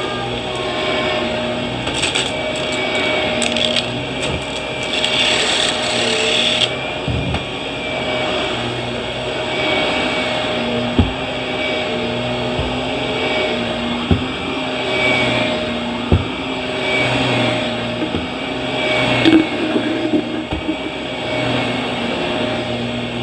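Vacuum cleaner running steadily with a constant motor whine as it is worked over the floor. There is a stretch of hiss in the first few seconds and a few sharp knocks in the second half.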